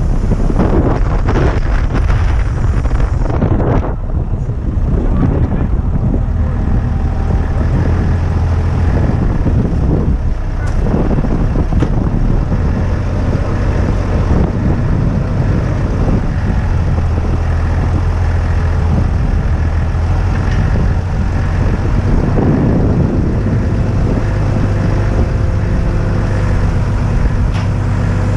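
Diesel crane truck's engine running steadily, with strong gusty wind buffeting the microphone.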